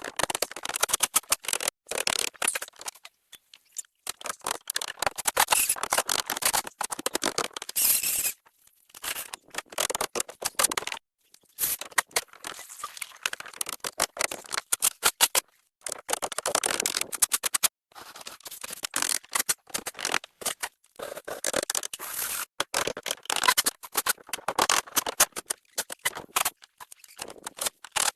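Scraping and rattling from hand-tool work, in irregular spells of a second to a few seconds broken by short silent gaps.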